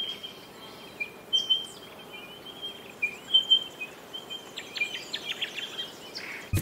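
Birds chirping: short whistled calls, then a quick run of rapid chirps about five seconds in, over a steady outdoor background hiss. A brief low thump comes near the end.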